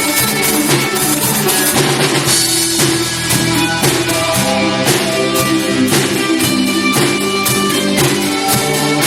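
Live rock band playing a song, with a drum kit keeping a steady beat under guitars.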